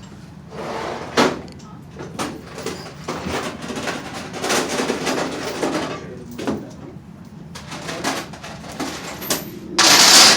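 Metal tools and rigging being handled: scattered knocks and clanks, then a short, loud burst of rushing noise near the end.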